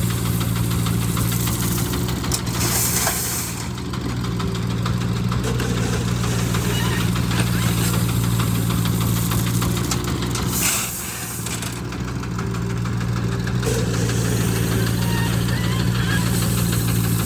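Diesel engine running steadily with a low, even hum. It dips briefly about eleven seconds in.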